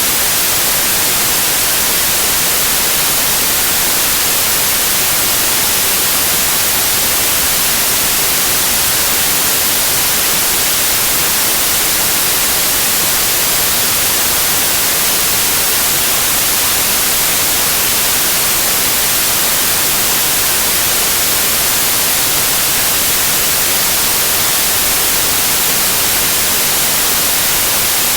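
Steady white noise like TV static: an even, unchanging hiss, brightest in the high end.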